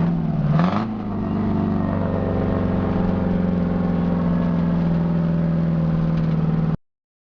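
Straight-piped Detroit Diesel 8V71 two-stroke V8 pulling the truck down the road with a loud, steady exhaust note. About half a second in, the revs dip briefly with a short hiss, then climb and hold steady. The sound cuts off suddenly near the end.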